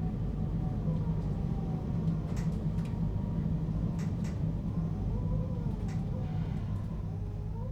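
Running noise heard from inside a JR Hokkaido 721-series electric multiple unit motor car fitted with a Toshiba GTO inverter. A steady motor and gear hum sits over rumble from the track. Sharp clacks come from the rail joints a few times, and faint tones waver up and down in the second half.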